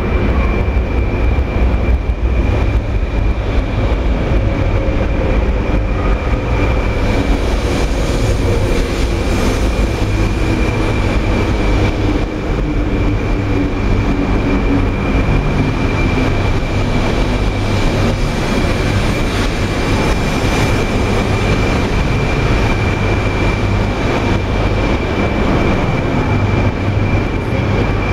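Shinkansen 200 series train pulling into a station, its motor whine falling in pitch as it slows over about the first half, over a heavy low rumble. A steady high tone sounds above it.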